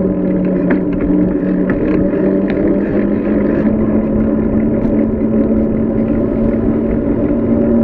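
Wind rushing over the microphone on a fast bicycle descent, with a steady low hum that rises slightly in pitch in the second half.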